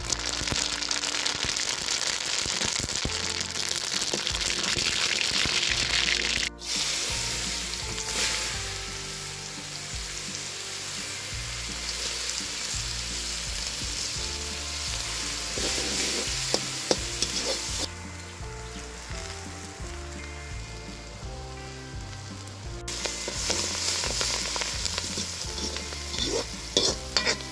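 Mustard seeds, then chopped onion and curry leaves, sizzling in hot butter in a metal wok: a steady frying hiss that drops back for a few seconds past the middle and then rises again. Near the end a wooden spatula stirs and scrapes the pan with a few sharp clicks.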